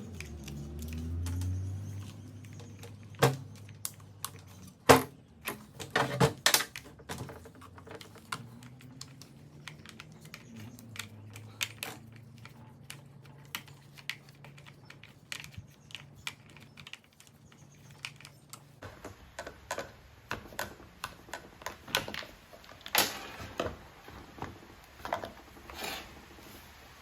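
Irregular light clicks and taps of hand tools and hard plastic parts being handled while old fuel lines are worked out of a small two-stroke hedge trimmer. A faint low hum runs underneath and stops about two-thirds of the way through.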